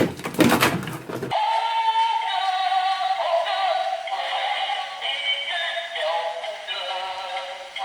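Tinny synthesized singing over a simple melody, with no bass at all, starting abruptly about a second in after a couple of knocks.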